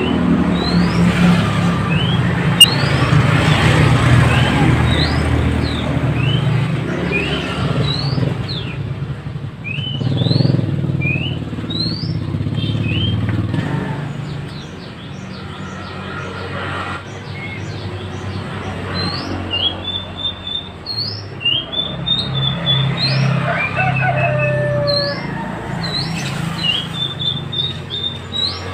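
Mantenan birds (minivets) calling: many short, rising, whistled chirps repeated one after another, over a steady low rumble.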